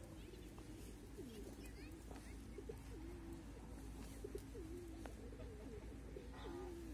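Low cooing bird calls, wavering in pitch, repeating over and over, with a short harsher call near the end.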